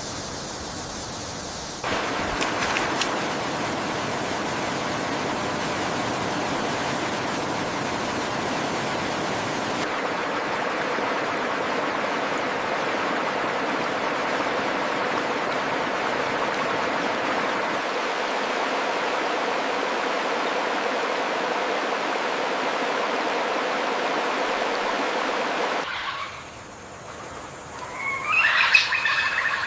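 Steady rush of flowing water in a stream, its tone shifting slightly a couple of times. Near the end the water sound drops away and a bird calls loudly.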